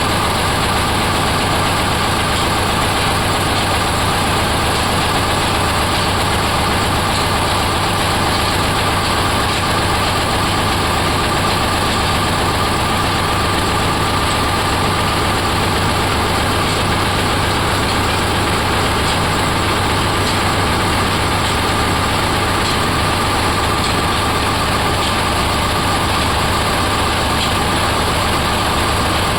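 Oil expeller machine running steadily: a continuous, even mechanical drone with a low hum that does not change.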